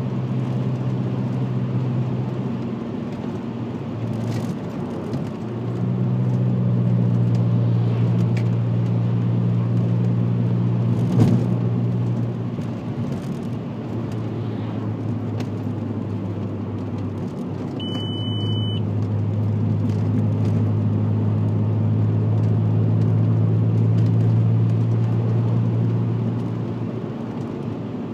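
VW Passat W8's 4.0-litre W8 engine droning through a custom stainless exhaust with twin rear mufflers and the centre silencer deleted, as the car drives at a steady pace. The drone swells louder twice under throttle and eases between, over tyre and road noise, with a single knock about eleven seconds in.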